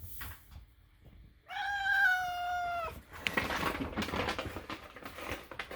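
A house cat meows once, a long drawn-out call lasting about a second and a half that sags slightly in pitch, followed by a couple of seconds of rough, crackly noise.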